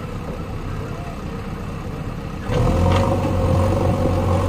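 JCB backhoe loader's diesel engine running, then revving up sharply about two and a half seconds in with a brief clatter, and holding at the higher, louder speed under load.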